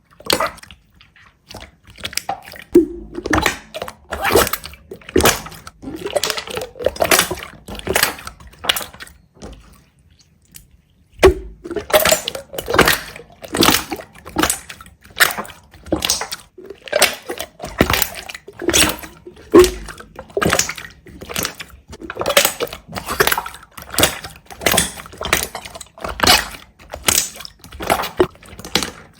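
A series of short, sharp clicks and knocks, roughly two a second. They are sparse near the start and pause for about two seconds about a third of the way through.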